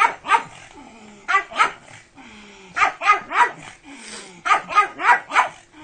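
Pug barking excitedly in quick runs of two to four short, sharp barks, with brief pauses between the runs.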